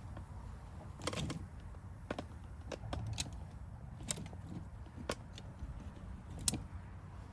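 Scattered light clicks and knocks of objects being handled, a small cluster about a second in and single ones roughly once a second after that, the sharpest about six and a half seconds in, over a low steady hum.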